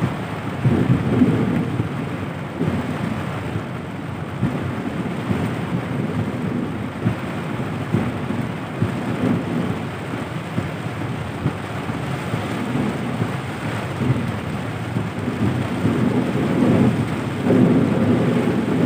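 Heavy rain beating on a moving car's roof and windshield, heard from inside the cabin as a steady, low rushing noise. It grows a little louder near the end.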